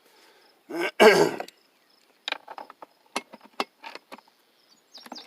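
Light, irregular metallic clicks and taps of hand tools being handled around the outboard's engine cover. About a second in there is a brief, loud vocal sound, and birds chirp near the end.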